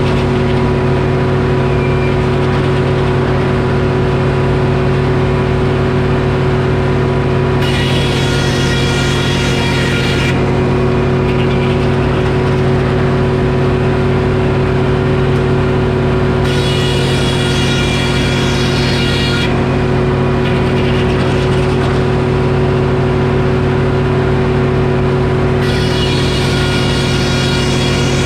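Detroit Diesel engine running steadily at working speed, driving a Frick circular sawmill. Three times, for about three seconds each, a high whine rises over the engine as the saw cuts through oak.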